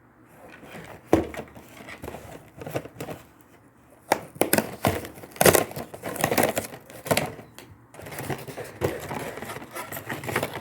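A packet of crispbreads being handled and opened, its wrapper crinkling and tearing in irregular crackles that are densest in the middle of the stretch.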